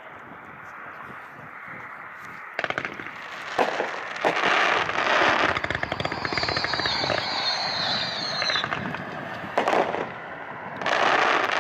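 A 168-shot, 500-gram consumer fireworks cake firing: bursts of crackling reports come in waves, with a high, slightly falling whistle in the middle.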